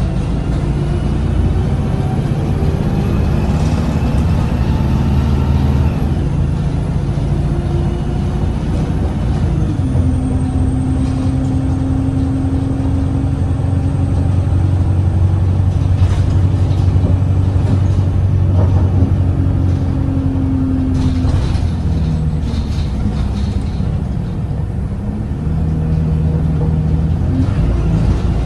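Cummins ISBe diesel engine and Voith automatic gearbox of an Alexander Dennis Enviro 200 bus under way, heard from on board. The engine runs with a steady low drone, its note held for long stretches before shifting a few times, as the gearbox drags in gear. This gear drag leaves the bus vibrating and slow to pick up.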